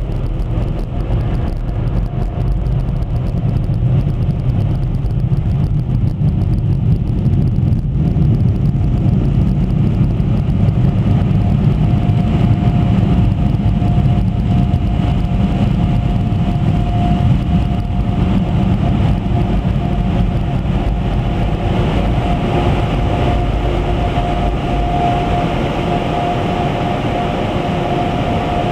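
An automatic car wash's downdraft machine working over the car, heard from inside the cabin: a loud, steady, heavy rush. About twelve seconds in, a thin whine joins it and grows stronger near the end.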